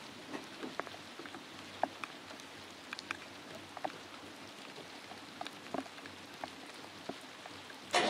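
Faint steady hiss with scattered light ticks and clicks, then, right at the end, the Citroën 2CV's air-cooled flat-twin engine suddenly fires and starts running after two years of standing unused.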